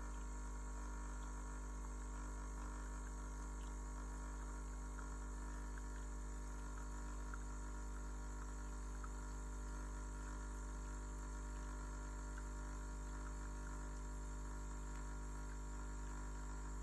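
Steady electrical hum, unchanging, with no other events.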